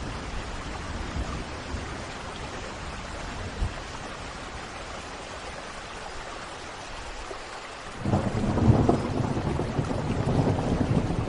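Steady rain falling, then about two-thirds of the way through a loud rolling rumble of thunder breaks in suddenly and keeps rumbling.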